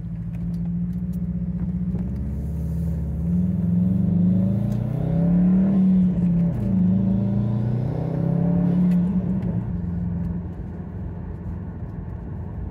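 Car engine accelerating away, heard from inside the cabin: the engine note rises, drops once about six and a half seconds in at a gear change, then rises again before easing off near the end.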